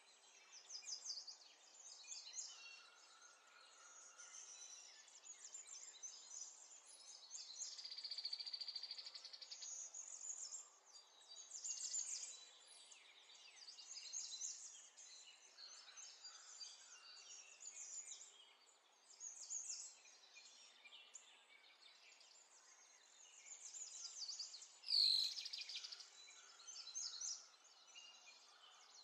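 Faint, continuous twittering of small birds, with one louder sweeping sound near the end.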